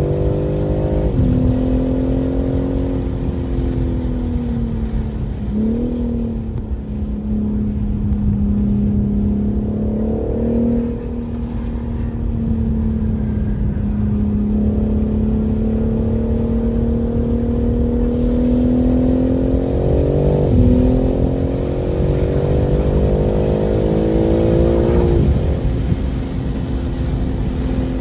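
2023 BMW M3 Competition xDrive's twin-turbo inline-six driven hard on track. Its pitch climbs and sags with the throttle and jumps at about five gear changes, over a steady low rush of road noise.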